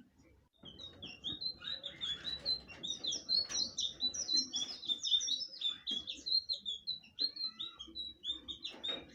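Blue flycatcher (sikatan biru) singing a fast, continuous warbling song of short, high notes. The song starts about half a second in and thins out near the end.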